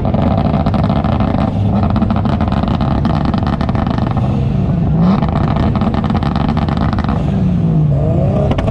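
Turbocharged Toyota Supra 2JZ-GTE engine held on a two-step launch limiter, firing a rapid crackle of exhaust pops. The engine pitch rises and falls a few times as the revs change.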